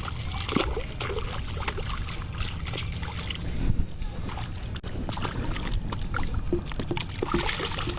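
Water splashing with scattered small knocks and clicks at a kayak as a freshly caught trout is handled, over a steady low wind rumble. A louder knock or splash comes about three and a half seconds in.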